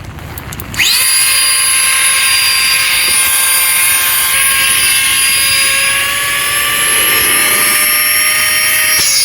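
Small battery-powered electric air pump whining steadily as it inflates a sleeping mat. It starts about a second in, and its pitch creeps slightly higher as the mat fills.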